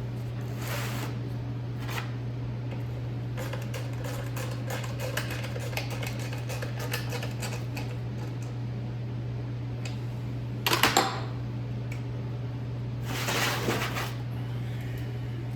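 Light metallic clicks and rattles of bolts and a hand wrench being worked into a small engine's shroud housing, with a short, louder rattle about eleven seconds in. A steady low hum from a shop ceiling heater runs underneath.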